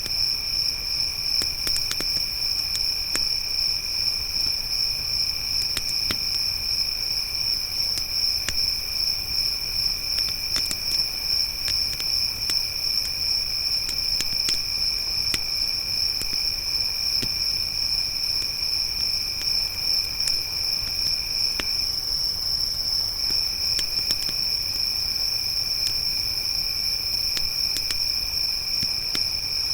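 Crickets chirping in a continuous high chorus, with a second, lower cricket trill that stops briefly about two-thirds of the way through. A campfire crackles underneath with scattered sharp pops.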